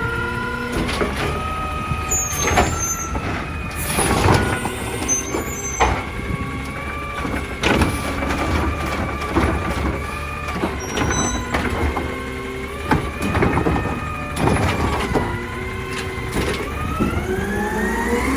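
Heil Durapack Rapid Rail garbage truck running with a steady, slightly wavering whine, punctuated by repeated metal clanks and bangs; the pitch rises near the end as the engine speeds up.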